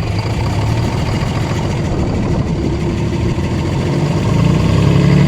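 Old concrete truck's diesel engine firing on ether during a cold start and running, its revs climbing from about four seconds in.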